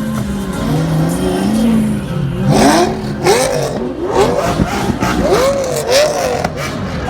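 Sports car engines revving hard as cars pull away, with several quick rev blips whose pitch rises and falls, bunched in the second half.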